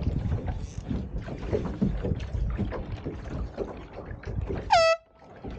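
Wind buffeting the microphone and water rushing past a small sailboat's hull, then near the end one short, loud horn blast: the race committee's signal for a boat crossing the finish line.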